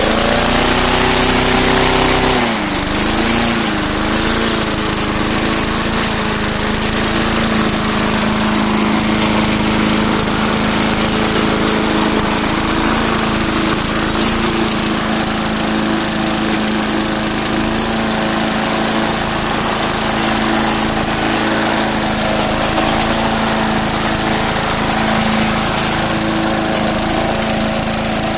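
Murray push mower's 4.5 hp Briggs & Stratton engine running just after a primed cold start. Its pitch dips and wavers briefly about two to three seconds in, then it settles and runs steadily.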